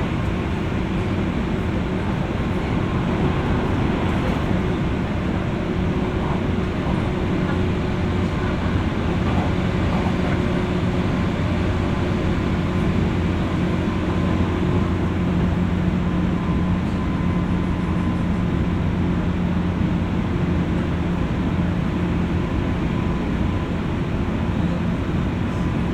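Running noise inside a JR West 201-series electric train's motor car, heard from above its armature chopper: a steady rumble of wheels on rail with a constant electrical hum held under it.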